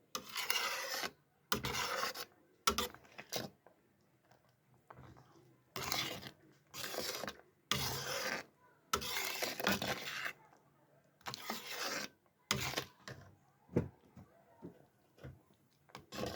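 Rasping scrapes in about ten irregular strokes, each roughly half a second to a second long, with short pauses between them.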